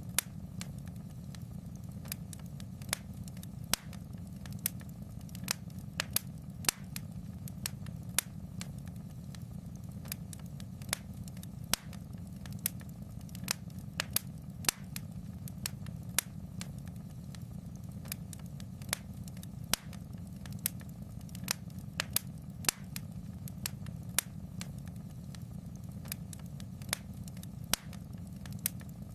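Fire crackling in a fireplace: frequent irregular sharp snaps and pops over a steady low rumble of the flames.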